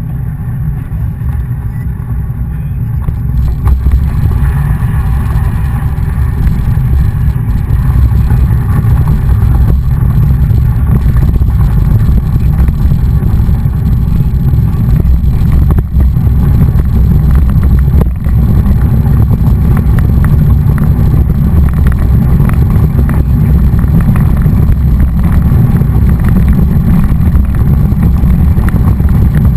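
Loud wind buffeting and rumble on the microphone of a camera riding along on a mountain bike, growing louder a few seconds in and staying steady.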